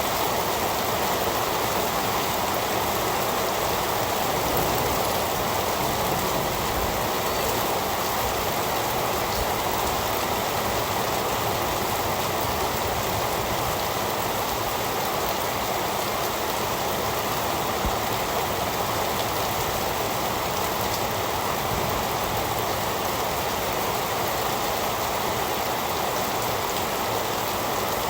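Heavy rain falling steadily, a dense even hiss of drops with no let-up or change.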